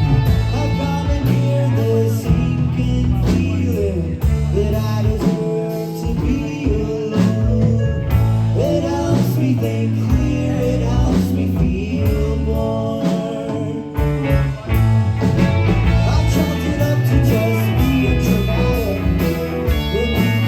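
A band playing live: electric guitar over bass and drums, with singing, at a steady beat.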